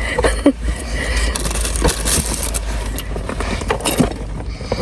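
Steady low rumble of a car heard from inside the cabin, with rustling and light clicks of items being handled.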